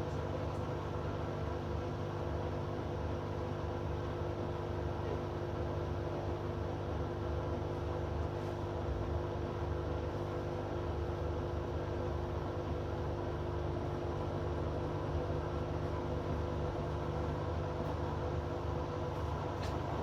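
Hoover washing machine running mid-cycle: a steady hum with a few constant tones, even and unbroken throughout.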